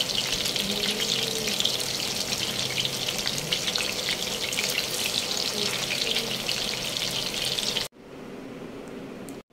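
Marinated chicken pieces shallow-frying in oil in a stainless steel pan, giving a dense, steady crackling sizzle as a spatula turns them. The sizzle cuts off suddenly about eight seconds in, leaving a much quieter steady background.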